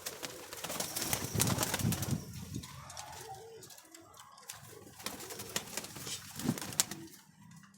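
Domestic pigeons cooing amid rustling, scuffling and clicks, loudest in the first few seconds.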